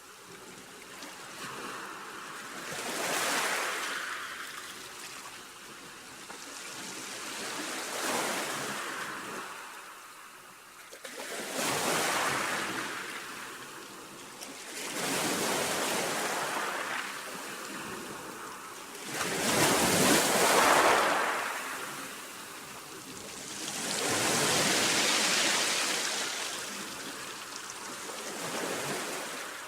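Sea waves breaking and washing on a shore, about seven surges swelling and fading every four seconds or so, the biggest about two-thirds of the way in.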